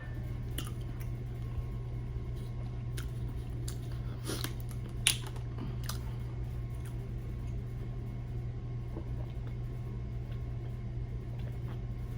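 A steady low hum with a few scattered small clicks and taps, the loudest about five seconds in.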